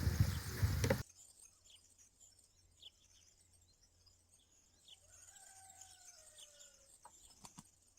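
Geese honking for about a second, then it cuts to a quiet farmyard with faint bird chirps. About five seconds in a distant rooster crows, one long call falling in pitch, and a few sharp knocks follow near the end.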